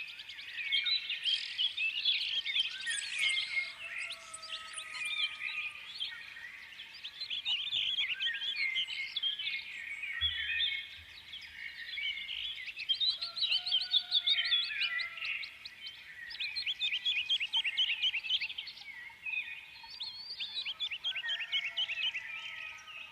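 Several small birds singing together, a dense run of chirps and fast trills.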